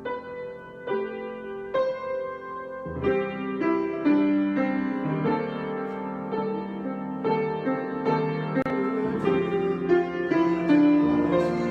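Solo piano improvisation: chords and single notes struck and left ringing, slow at first and growing busier a few seconds in.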